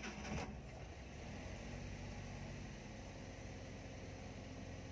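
Suzuki kei van's K6A three-cylinder engine idling steadily just after being started, with a brief flare in the first half-second before it settles, heard from inside the cab.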